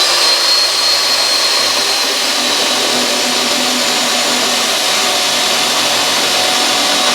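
Corded electric chainsaw running steadily at full speed, a dense motor-and-chain noise with a high whine.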